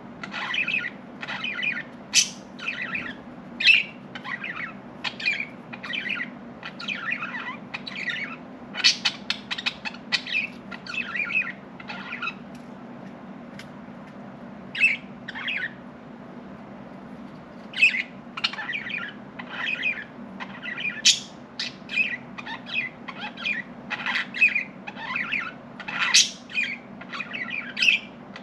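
Pet budgerigars chirping and chattering in quick bursts of short calls, pausing for a few seconds about halfway through, over a steady low hum.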